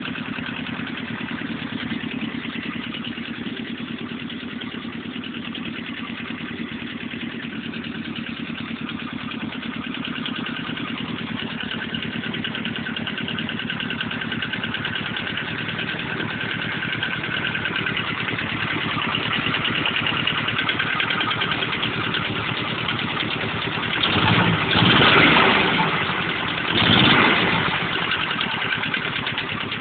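Renault 4CV's rear-mounted four-cylinder engine idling steadily, then revved twice briefly near the end.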